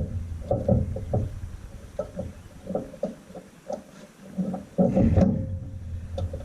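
Irregular metal clunks and knocks of a tractor PTO shaft being worked onto its shaft, with a louder cluster of knocks about five seconds in over a low rumble.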